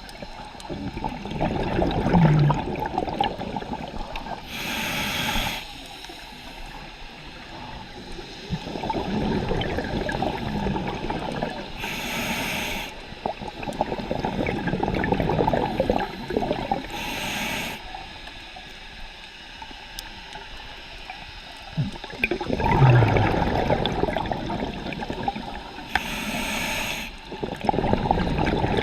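Scuba diver breathing through a regulator underwater, four breaths about seven seconds apart. Each breath is a longer gurgling rush of exhaled bubbles followed by a short hiss as the regulator delivers air on the inhale.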